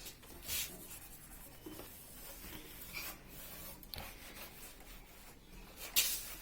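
Cloth rubbing and wiping over a vehicle's surface in short, scratchy strokes.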